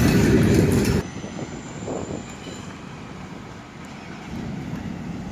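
Freight train cars rumbling past close by for about a second, then the sound drops off abruptly to a fainter, steady low rumble.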